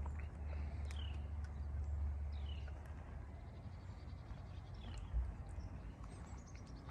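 Birds chirping: short downward-sliding calls every second or two, then a quick run of high notes near the end, over a steady low rumble.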